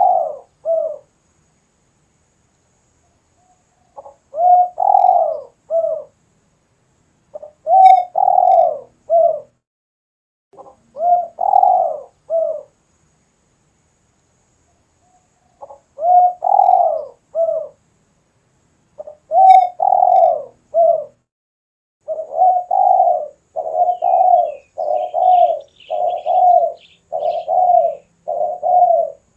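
Spotted dove cooing: repeated short coo phrases every few seconds, then in the last third a fast run of coos one after another. Faint high chirps from another small bird come in near the end.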